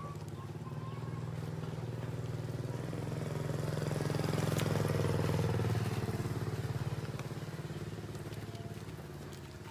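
A small engine running, growing louder until about halfway through and then fading away.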